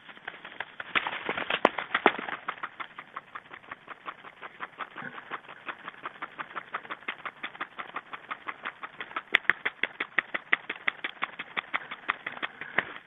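A small bird pecking at seed on a feeder: a long run of quick, even taps, about five a second, that stops just before the end.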